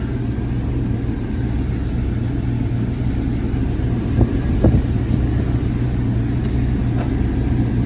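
Supercharged 416-cubic-inch V8 idling steadily at operating temperature, with two brief clicks about halfway through.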